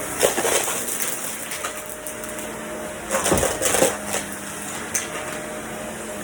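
Vacuum cleaner running with a steady hum, broken by two loud bursts of crunching, rattling noise, one at the start and one about three seconds in, and a sharp click near the end.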